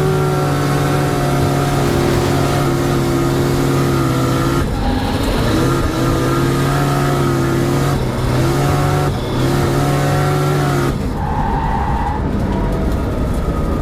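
Highly modified Nissan GT-R drift car's 4-litre V6 engine run hard at a steady pitch during a flat-out high-speed drift, with tyre noise. The tone breaks off briefly twice, and the engine lets off about three-quarters of the way through.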